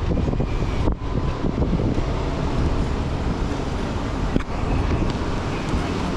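Steady rushing and rumbling noise of a car in motion mixed with wind, dipping briefly about a second in.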